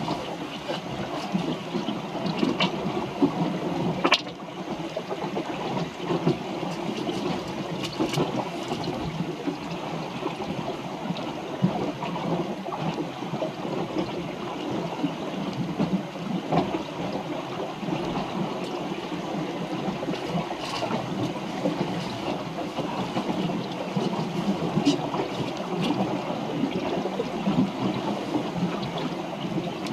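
Water gurgling and rushing along the hull of a small wooden sailboat under way, with a few sharp knocks.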